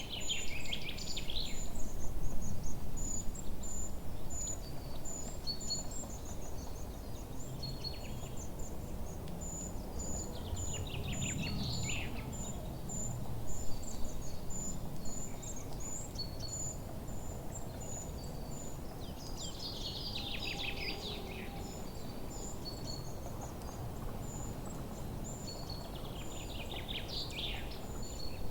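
Forest ambience: songbirds singing phrases of quick notes that fall in pitch, recurring every eight to nine seconds. Under them runs a steady series of short, high chirps and a low background rumble.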